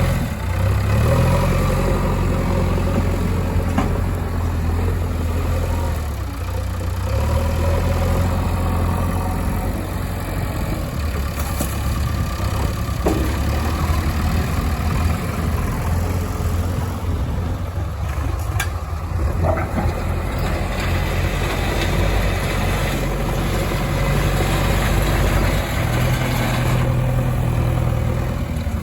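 Heavy diesel engines of a backhoe loader and tipper trucks running at a loading site, the engine note rising and falling as they are throttled up and down, with a few sharp knocks.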